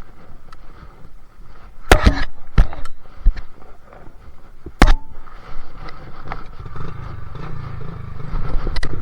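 A few sharp knocks and clatters about two to five seconds in, then a dirt bike engine's low rumble building up near the end.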